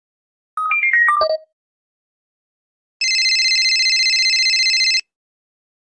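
A brief falling run of electronic blips, then a telephone-ring sound effect: a fast-warbling electronic ring held for about two seconds before it cuts off abruptly.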